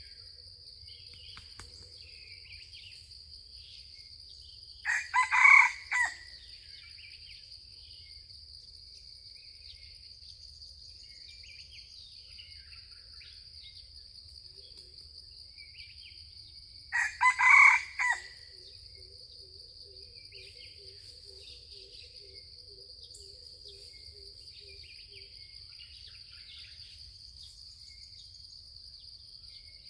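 A junglefowl rooster crows twice, about twelve seconds apart, each crow a short burst of a few notes. A steady high insect drone and scattered small bird chirps run underneath throughout.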